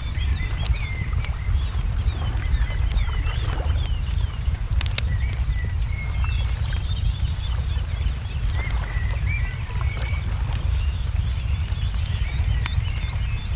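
Wood fire crackling with scattered sharp pops, while songbirds chirp throughout. Near the start a bird gives a run of short falling notes. A steady low rumble lies underneath.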